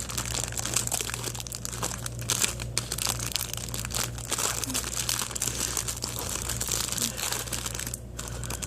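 Plastic snack wrapper of a chocolate Moon Pie crinkling and crackling in the hands.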